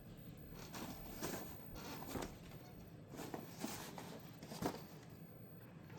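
Faint rustling and handling noises: a string of soft brushes and scrapes, a few of them a little louder, about a second in, at two seconds, and near the end.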